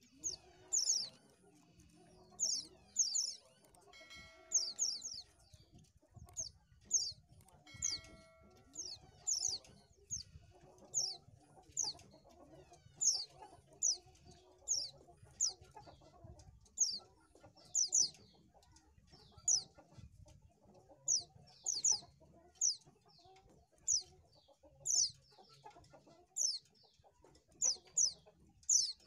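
A white-eye (pleci) calling: a steady series of short, sharp, high chirps that fall in pitch, often in quick pairs, about one or two a second.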